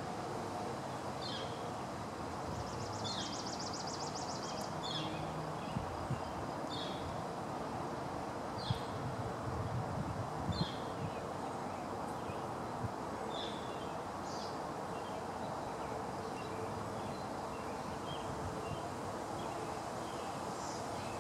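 Steady outdoor background noise with a bird repeating a short chirp about once a second through the first half, then only now and then, and a brief high trill a few seconds in. A few soft low knocks come in the middle.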